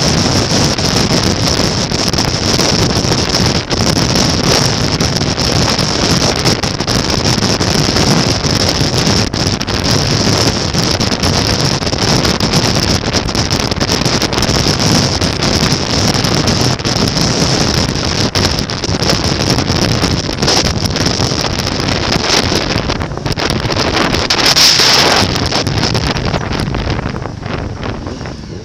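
Steady wind rush on the microphone over a running motorcycle, as heard while riding at speed. It eases off near the end.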